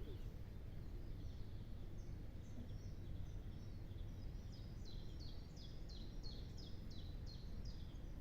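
A bird singing a run of short, high, downward-sliding notes, about two a second, over a steady low rumble.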